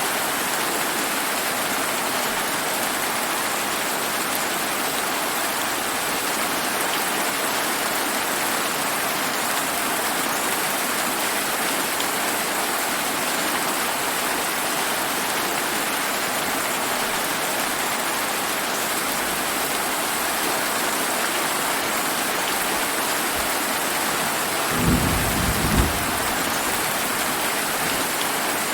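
Steady summer rain hissing evenly. Near the end comes a brief low clap of thunder, about a second long with two sharp jolts.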